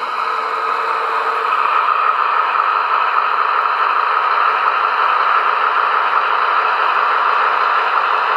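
Märklin HO-scale VT 11.5 TEE diesel train model running: a steady whir and rattle of motor and wheels on the track, mixed with the diesel engine sound from its sound decoder. It grows a little louder in the first couple of seconds.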